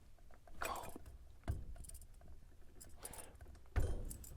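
Metal clicks and knocks as a tool works the boiler's bottom isolation valve open, with two heavier thumps, one about a third of the way in and one near the end.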